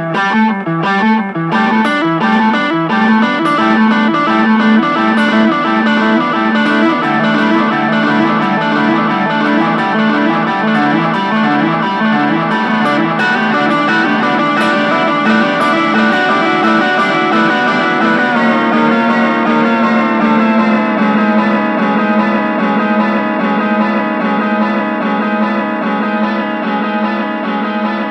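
Electric guitar, a Fender Telecaster, played through a Boss DD-3 digital delay pedal: plucked notes repeat and pile up into a dense, sustained wash of echoing tones over a steady low drone. About two-thirds of the way through, the upper tones slide down in pitch.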